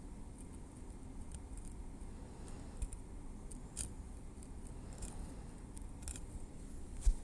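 Metal tweezers making small, sharp clicks at irregular intervals as they work through hair at the scalp, close to the microphone.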